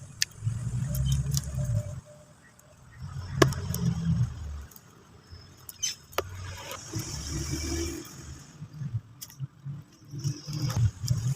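Lumps of cement being crushed and crumbled by hand close to the microphone: four bouts of low crunching with a few sharp cracks between them.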